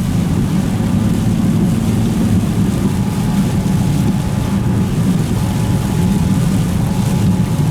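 A vehicle driving, its engine and road noise making a steady low rumble.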